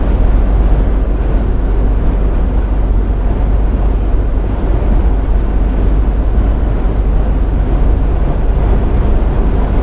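Iveco lorry cruising on the road: a steady, loud rumble of engine and tyre noise heard from inside the cab.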